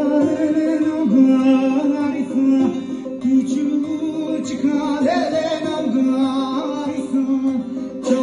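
A man singing a melody over a plucked string instrument, with a steady low drone beneath.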